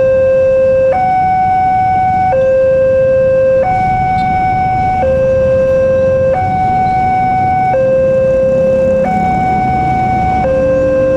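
Electronic warning alarm of a railroad level crossing, alternating steadily between a lower and a higher tone, each held about a second and a half. This is the signal that a train is approaching. A low rumble runs underneath.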